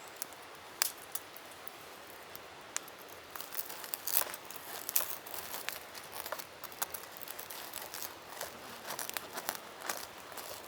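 A wrapper or packaging being handled and crinkled, giving irregular crackling rustles that grow busier a few seconds in.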